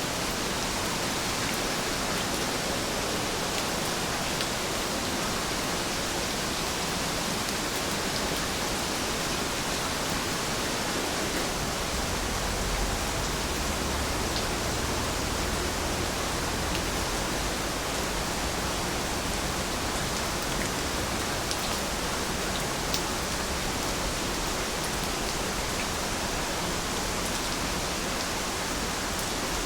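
Steady rain falling as an even hiss, with scattered faint drop ticks. A low rumble joins about a third of the way through.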